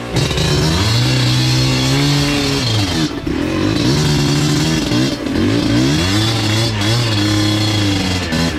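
Enduro motorcycle engine revving hard, its pitch rising and falling over and over as the throttle is worked, with short drops around three and five seconds in.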